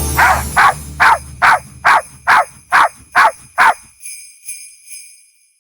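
Jingle bells shaken in a steady rhythm, about two shakes a second, nine in all, over a low hum; after the last shake a high ringing lingers and fades away.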